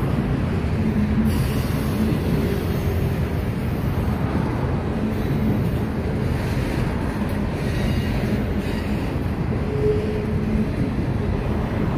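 Freight train of autorack cars rolling past: a steady low rumble of steel wheels on rail.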